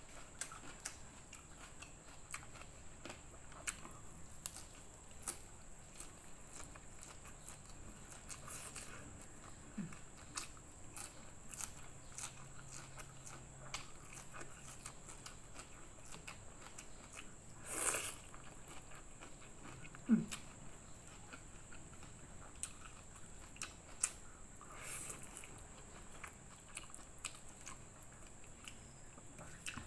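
Close-up mouth sounds of eating: chewing and crunching raw leafy greens and fried noodles with bean sprouts, with many small scattered clicks and smacks. One louder burst comes about two-thirds of the way through.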